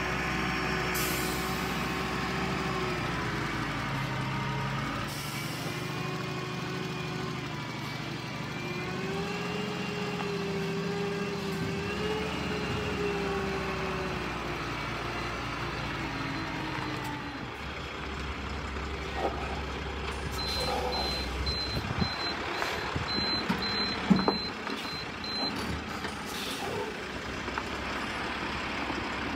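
Heavy diesel engine running and revving, its pitch rising and falling. A reversing alarm beeps repeatedly for about five seconds, over a few knocks with one sharp one.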